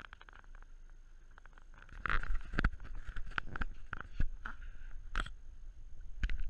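Sailing boat at sea: quiet at first, then irregular knocks and thumps over a low rumble from about two seconds in.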